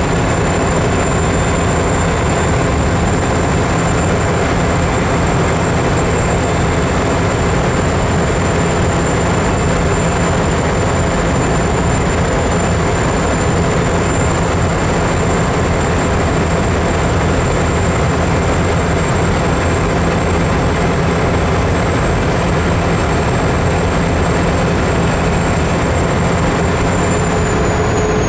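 Steady vehicle engine and road noise, even and unbroken, with a thin high whine that dips slightly near the end.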